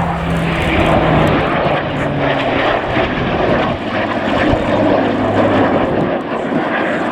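Supermarine Spitfire's piston engine passing by in a low display pass, a loud rushing drone whose pitch drops about three and a half seconds in as the aircraft goes past.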